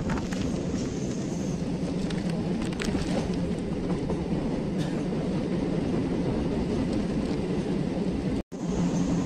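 Passenger train running, heard from inside the coach: a steady rumble of wheels on rail with a few faint clicks. The sound cuts out for a split second near the end.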